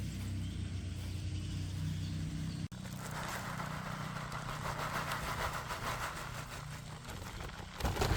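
An engine running with a steady low hum. A little under three seconds in the sound breaks off for an instant, then resumes with a hiss added over the hum.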